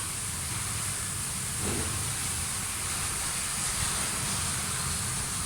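Steady background hiss with a low hum underneath, and a brief faint sound about a second and a half in.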